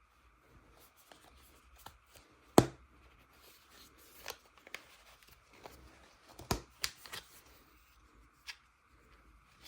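Objects being handled: light rustling with scattered clicks, and two sharper knocks about two and a half seconds in and about six and a half seconds in.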